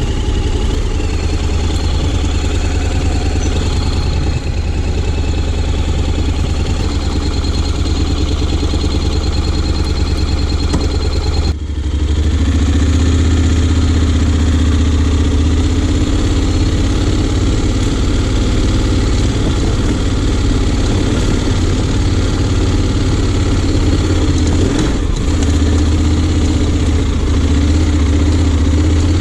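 Honda X-ADV 750's parallel-twin engine running at low revs off-road. It dips briefly about eleven seconds in, then runs louder.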